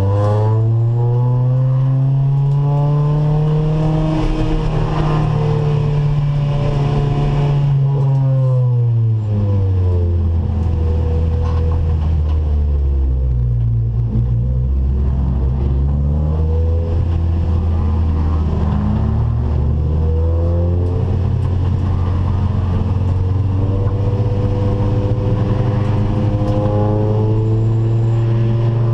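Acura Integra race car's four-cylinder VTEC engine at racing revs: the pitch climbs and holds high, drops steeply for several seconds about eight seconds in as the car slows, then climbs again and runs high and fairly steady for the rest.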